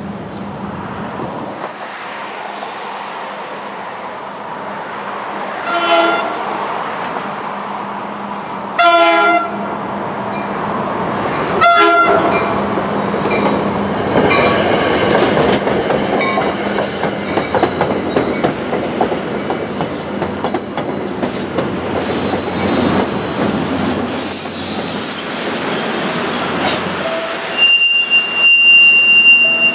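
New Jersey Transit commuter train, led by a Comet V cab car, sounds three horn blasts about three seconds apart as it approaches. It then passes close by with loud wheel and rail noise, and a high, steady wheel squeal near the end.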